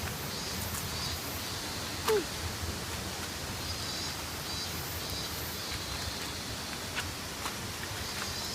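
Steady rushing of a waterfall. A short sharp click stands out about two seconds in.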